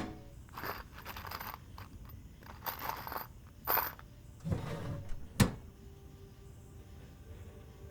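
Scattered scrapes, clinks and clicks of tools or parts being handled, with a sharp click about five and a half seconds in. Soft music with held notes fades in near the end.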